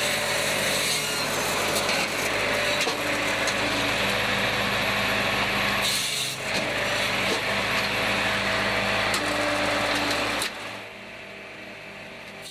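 Engine-driven wood-cutting machine running and cutting into wood: a steady, loud rasp of cutting over the hum of its motor. It breaks off briefly about six seconds in and drops away sharply near the end.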